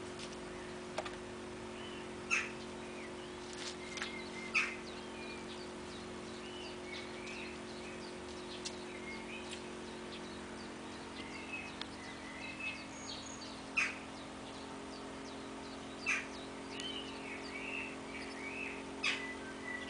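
Small birds chirping and twittering, with about five louder sharp, short chips, over a steady low hum.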